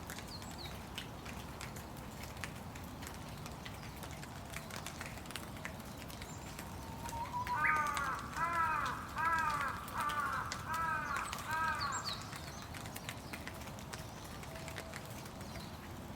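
Steady rain with scattered drops ticking. About seven seconds in, a crow gives a run of about seven caws over some five seconds.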